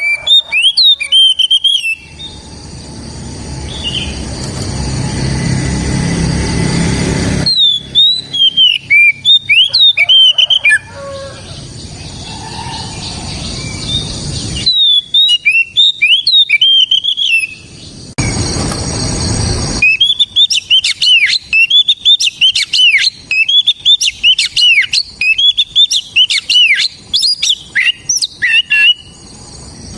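Oriental magpie-robin (kacer) singing loud bursts of quick, sweeping whistled notes, with a long fast run of song in the second half. Between the bursts are stretches of rushing noise.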